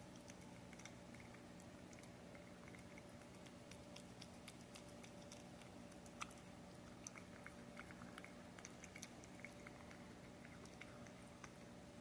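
Cat eating wet beef paté: faint, quick wet chewing clicks, more frequent in the second half, over a faint steady hum.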